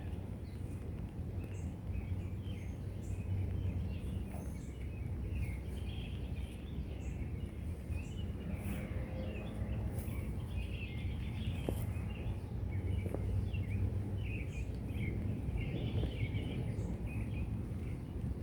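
Outdoor ambience as rain begins: a steady low rumble, with birds chirping throughout and scattered faint high ticks.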